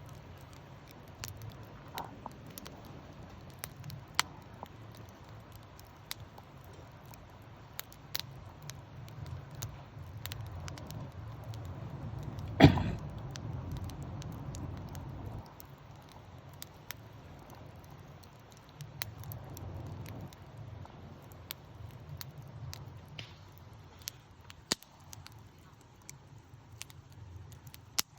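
Wood campfire burning, crackling with scattered sharp pops over a low rumble, and one much louder pop a little before halfway through.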